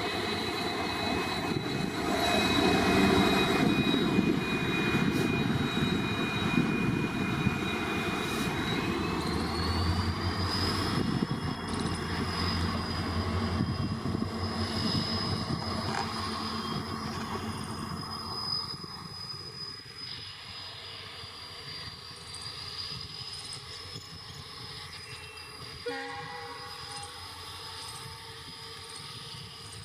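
A train running past on the rails, loudest early on and fading over the second half. Over the rumble runs a high, steady whine that rises in pitch about ten seconds in.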